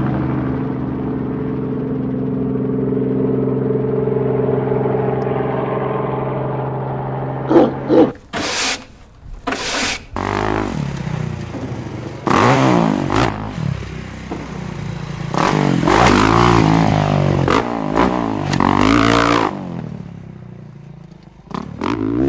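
Motocross dirt bike engines: a steady drone for the first several seconds, then from about eight seconds in a run of sharp revs whose pitch swings up and down repeatedly.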